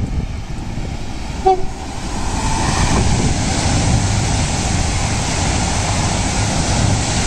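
Electric passenger train gives one short horn toot about a second and a half in, then runs beneath at speed with a steady rush of wheels on rail that grows louder from about two seconds in.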